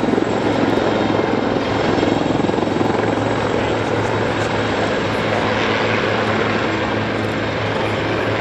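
Westland Lynx helicopter flying overhead: steady rotor and turbine noise over a constant low hum.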